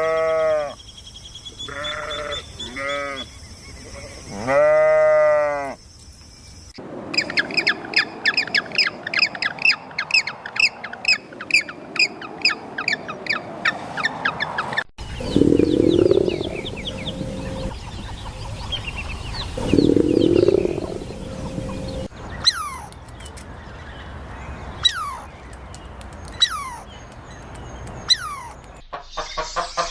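A run of farm-animal calls in separate clips: several bleats in the first six seconds, then a fast chorus of high chirps. Two longer low calls come about 15 and 20 seconds in, and sharp falling chirps follow near the end.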